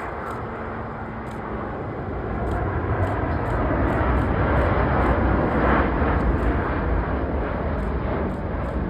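Airliner engines rumbling during landing, a rough, deep roar that swells over a couple of seconds, holds, then eases a little near the end.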